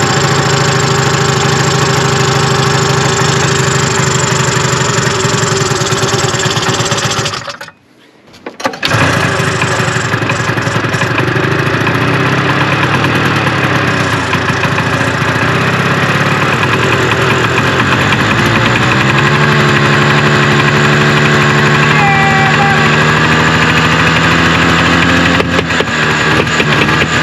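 Fan-cooled 340 two-stroke engine of a 1974 Arctic Cat Lynx snowmobile running, newly brought back to life on old fuel after sitting five years. It dies away about eight seconds in, comes back within a second, and runs faster from about nineteen seconds in.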